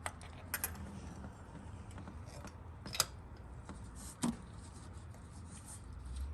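Spark plug socket and extension clicking and scraping against metal as they are fitted down into the plug well: a few scattered sharp clicks over faint rubbing.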